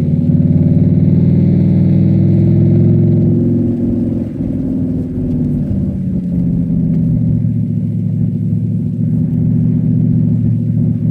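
Cadillac STS-V's supercharged V8 pulling under load, its pitch climbing slightly for about three and a half seconds with a faint high whine above it. Then the throttle eases, and the engine settles to a lower, steady drone.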